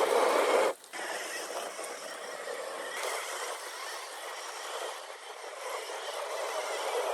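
1/10-scale RC rock racer's electric motor and drivetrain running, with tyres scrabbling on loose, dry soil that gives very light grip. The sound cuts out briefly about a second in, then carries on a little quieter.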